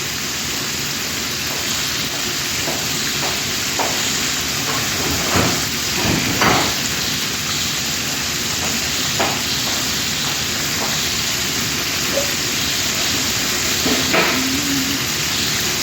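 Chicken pieces shallow-frying in hot oil in a pan, a steady sizzle with a few sharper clicks about five to nine seconds in.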